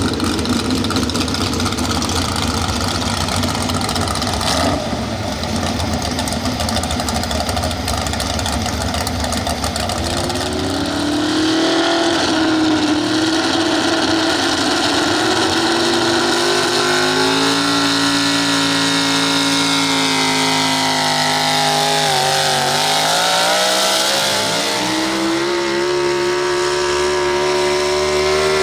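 Pro Stock 4x4 pulling truck's engine running hard. After about ten seconds of rough rumble, the revs climb and hold high. They sag briefly about two-thirds of the way through, then climb again and hold.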